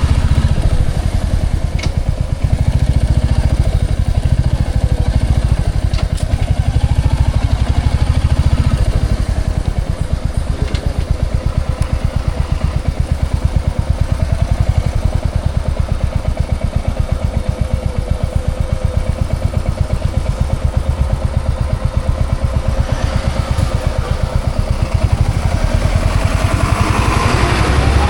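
Motorcycle engine running steadily under way, a rapid even pulsing with a strong low throb; its pitch shifts near the end.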